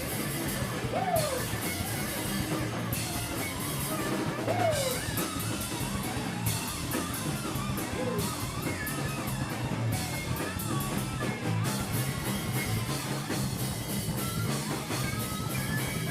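Live rock band playing a song: guitar over a drum kit with steady cymbal hits, and a few bent notes sliding in pitch.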